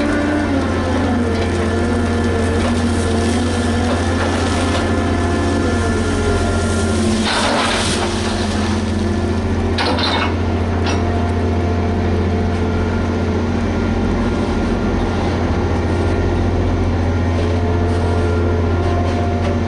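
Liebherr HS8200 dragline's diesel engine running with a steady deep drone, with winch and drive whines sliding up and down in pitch as it works. Two short rushing noises about seven and ten seconds in.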